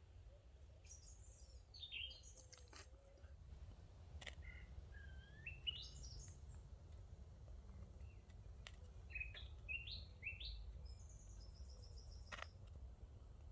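Faint woodland birdsong: several short phrases of quick, high chirps, with a few faint clicks and a low steady rumble underneath.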